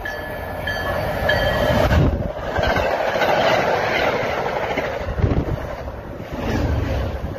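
MBTA commuter rail train passing close by at speed: a loud rushing of wheels on rail that builds over the first two seconds, with heavy clacks as the wheels cross rail joints.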